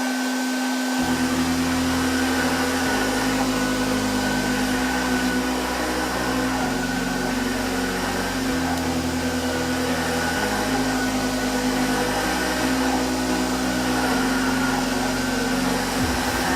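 Vacuum cleaner running steadily with an even motor hum, while electronic backing music plays a bass line underneath.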